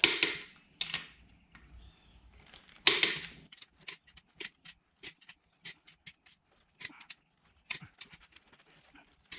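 Click-type torque wrench going over the main bearing cap bolts of a Jeep 2.5 L four-cylinder at 80 ft-lb: a sharp snap at the start and another about three seconds in as the wrench breaks over, then a run of light ratchet ticks, about two a second.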